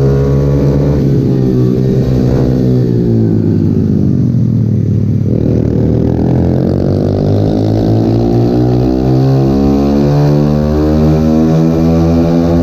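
Pit bike engine running hard. Its pitch falls over the first few seconds as it slows, then climbs steadily as it accelerates and holds high near the end.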